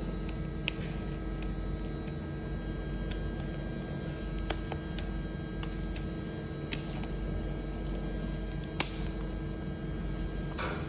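Steady electrical hum with a few sharp, separate snips, typical of scissors cutting a parrot's wing feathers.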